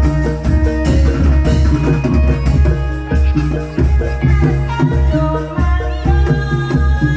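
Loud live Javanese traditional ensemble music: hand drums and struck, ringing pitched percussion over a deep, pulsing bass, playing continuously.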